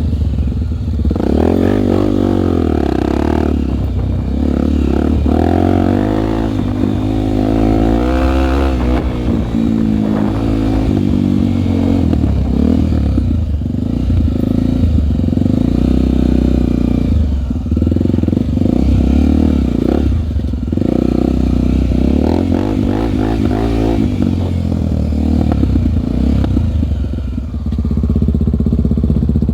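Single-cylinder four-stroke Honda trail motorcycle engine running under way, its pitch rising and falling again and again as the throttle is opened and closed.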